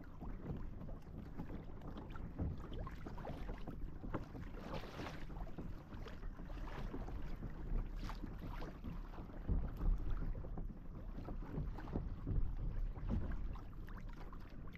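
Water sloshing around a kayak with wind noise on the microphone, broken by irregular small splashes and knocks.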